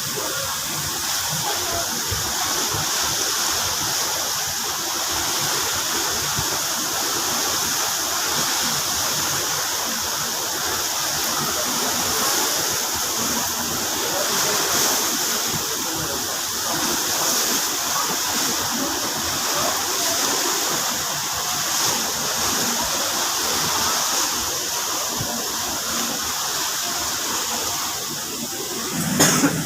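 Steady rushing and splashing of sea water churned along a moving ship's hull. A short knock sounds just before the end.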